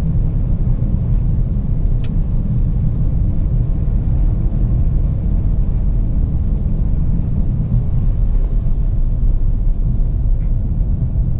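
Audi A7 3.0 TDI V6 diesel with a straight-piped exhaust (no muffler), running with a steady deep rumble.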